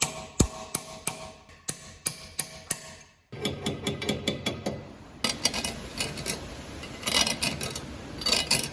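Hammer taps on metal, each strike ringing briefly, for about three seconds. Then the sound changes abruptly to a dense run of small clatters and scraping.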